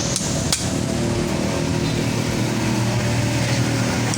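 Two sharp metallic taps of a hand tool striking metal engine parts, close together about half a second in, over a steady low hum.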